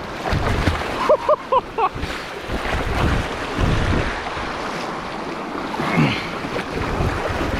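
River water rushing and splashing around a kayak as it is paddled, with wind buffeting the microphone. About a second in, four short quick pitched notes are heard, and near six seconds there is a brief voice-like sound.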